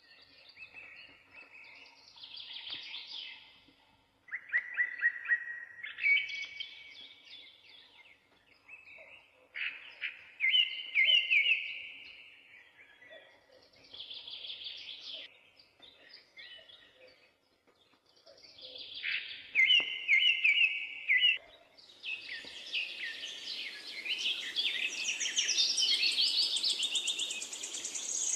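A bird singing: short chirping, warbling phrases repeated every few seconds with pauses between. About three-quarters of the way in, the steady hiss of oil sizzling in the frying pan joins it.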